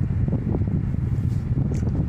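Car driving, heard from inside: a steady low road and engine rumble with a few faint ticks.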